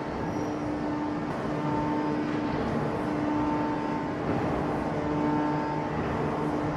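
Heavy forging-shop machinery running: a steady mechanical drone with a hum that comes and goes every second or so.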